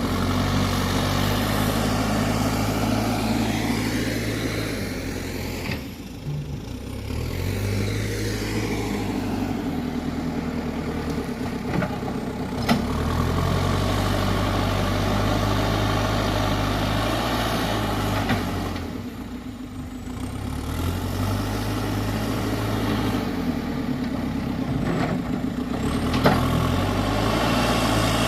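Dump truck engine running steadily, its engine speed holding and then shifting to a new pitch several times, with the engine easing off briefly about 6 seconds in and again about two-thirds of the way through.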